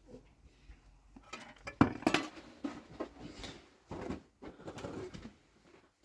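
Irregular knocks, scrapes and clatter of objects being handled and set down, loudest about two seconds in and again near four seconds.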